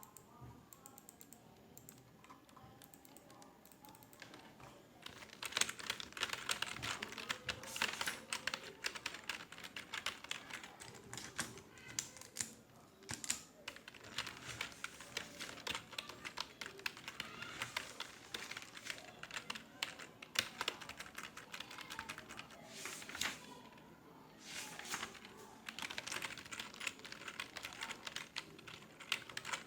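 Typing on a computer keyboard: rapid keystroke clicks, sparse for the first few seconds, then fast and continuous with a couple of brief pauses.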